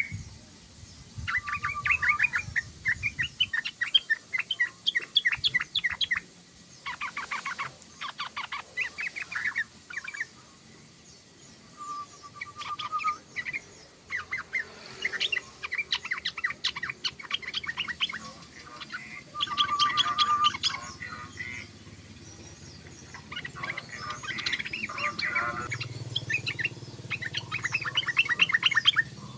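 Yellow-vented bulbul (trucukan) chattering in bursts of fast, rapidly repeated notes. Each run lasts one to three seconds with short pauses between, and a few open with a short level whistle.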